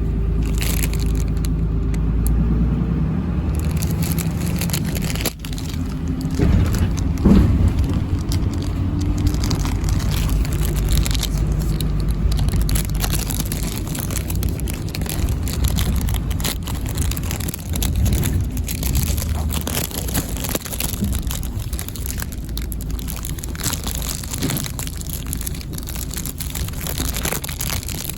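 Road vehicle engine running with a steady low rumble and road noise, with a brief break about five seconds in.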